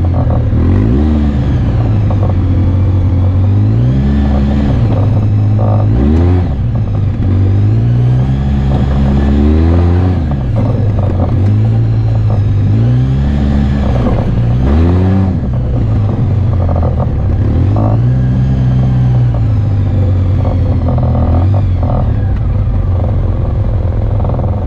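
Off-road vehicle engine running loud, its pitch repeatedly rising and falling as the throttle is opened and eased off, roughly every two to three seconds.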